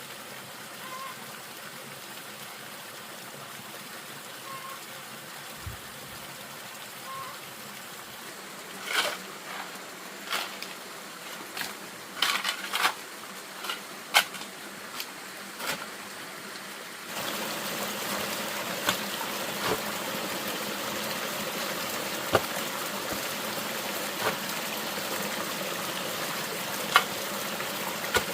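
Water running steadily, with a cluster of sharp knocks in the middle. About seventeen seconds in, the water sound steps up suddenly and becomes louder.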